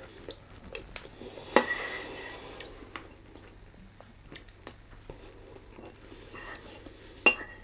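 Cutlery clinking and scraping on a plate while eating, with two sharper clinks, one about a second and a half in with a short ring and one near the end, and small faint ticks between them.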